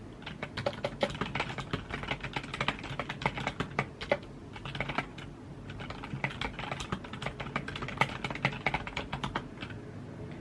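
Typing on a computer keyboard: quick runs of keystroke clicks with a brief pause about halfway through. The typing stops shortly before the end, leaving a steady low background hum.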